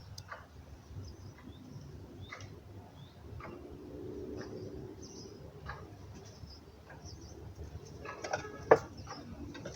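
Birds chirping on and off, with small clicks scattered through. A single sharp knock comes a second before the end and is the loudest sound.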